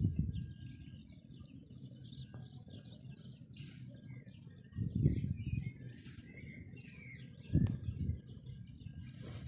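Small songbirds chirping and twittering continuously in many short high notes. Two brief, louder low rumbles come about halfway through and again about two and a half seconds later.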